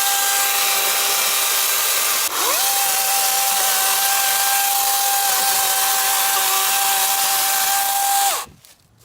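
DeWalt FlexVolt 60V brushless cordless chainsaw running at full speed with a steady high whine while cutting small limbs, without bogging. About two seconds in the speed drops briefly and spins straight back up. Near the end the trigger is released and the motor winds down to a stop.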